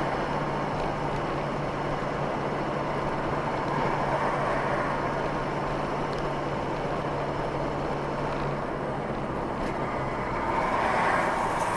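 Steady road and engine noise of a moving car, heard from inside through a dashboard camera, with a low hum that fades out about eight seconds in.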